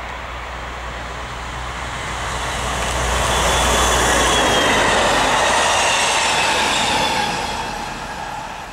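Train passing close by at speed, hauled by a Fret SNCF locomotive. The rumble and rush of wheels on rail builds, is loudest for a few seconds in the middle as the locomotive and coaches go past, with a faint high whine, then fades away.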